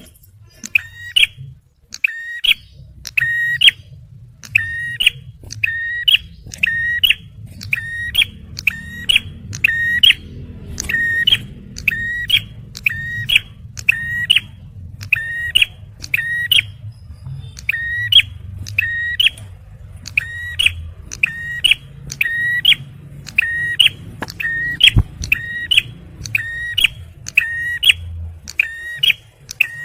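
Male prenjak merah (ciblek) giving its rapid 'tembakan' call: short, sharp, high chips repeated about twice a second in a steady run. A faint low hum sits underneath, with a single knock late on.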